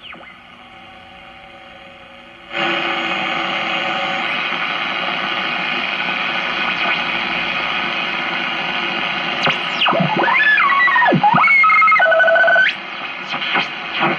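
Hallicrafters S-40B shortwave receiver hissing with band static, which jumps suddenly louder about two and a half seconds in. Later it gives heterodyne whistles that slide up and down in pitch as the dial is tuned across signals, settling briefly on steady tones before they cut off.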